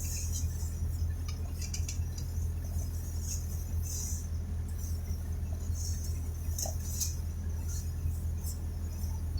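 Steady low rumble inside a vehicle's cabin, with scattered light ticks and rattles every second or so.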